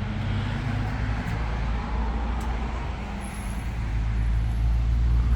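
A heavy engine running steadily with a low drone, growing louder near the end as it comes closer or works harder.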